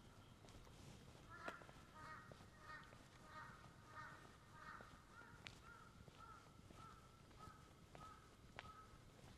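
A crow cawing in a quick series, about two calls a second, the calls growing thinner and fainter after the first few. A few sharp clicks are heard along with it.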